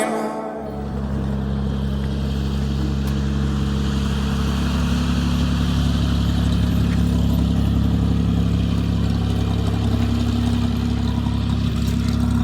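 Cessna 172's piston engine and propeller running steadily with an even drone. It begins about half a second in, as the music ends.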